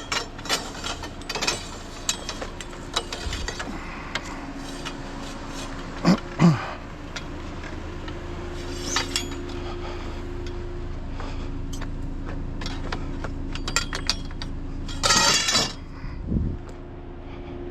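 Metal curtain rods and other scrap clinking and knocking as they are handled, with louder knocks about six seconds in and a short burst of rattling near the end, over a faint steady hum.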